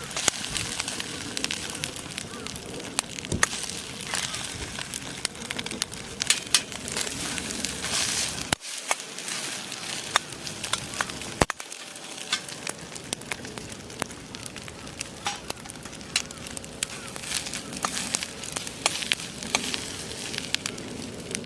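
Fried rice sizzling in a pan over a wood campfire, with the fire crackling and popping in sharp clicks throughout.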